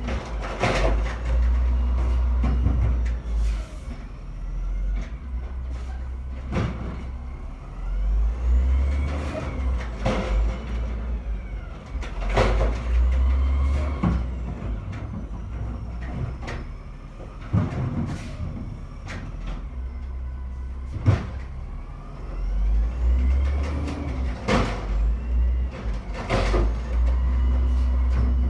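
Garbage truck at work: its engine surges in repeated deep rumbles while sharp clanks and bangs come every second or two, with faint rising and falling whines between them.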